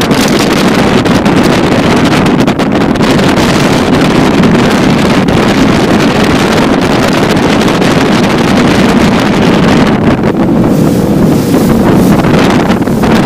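Motorboat under way: a steady engine drone mixed with rushing water, with heavy wind buffeting the microphone.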